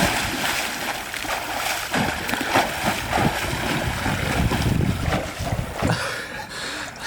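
Water splashing loudly and unevenly as a person swims hard in cold seawater beside a boat. The splashing eases about six seconds in.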